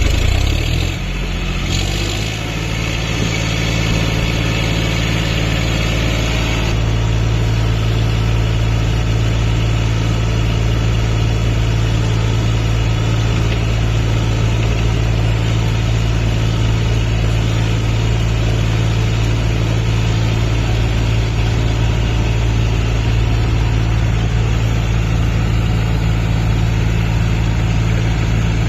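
John Deere 5050D tractor's three-cylinder diesel engine running, its speed shifting for the first two seconds and then holding steady. A hiss over the engine stops abruptly about seven seconds in.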